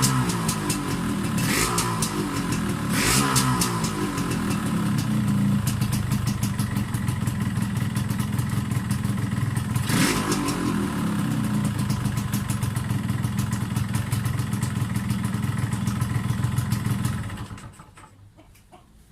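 Yamaha RX-Z 135's two-stroke single-cylinder engine running, revved briefly a few times early on and once about ten seconds in, otherwise idling steadily, then switched off about seventeen seconds in.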